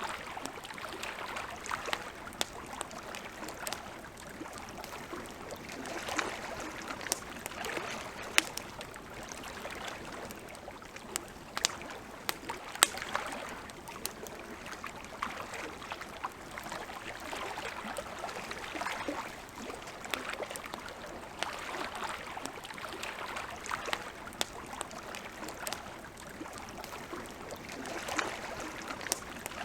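Campfire crackling, with frequent sharp pops and snaps, over a soft wash of lapping lake water that swells and fades every few seconds.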